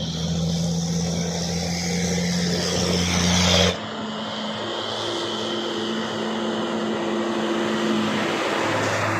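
Heavy truck's diesel engine labouring steadily. About a third of the way in, the sound cuts off abruptly and gives way to a different, steady engine note.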